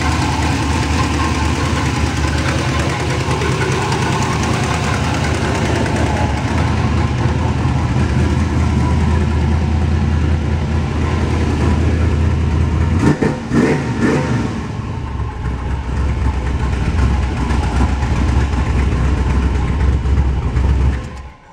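Chrysler 400 big-block V8, bored .030 over to a 405, running steadily at idle. About two-thirds through, its steady note briefly breaks and rises and falls, like a short blip of the throttle.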